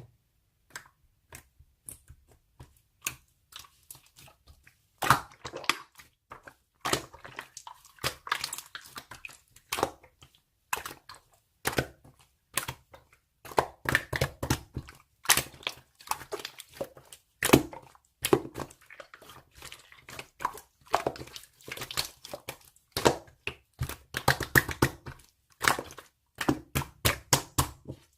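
Close handling noise: irregular crinkling and crackling with sharp taps, getting busier and louder about five seconds in.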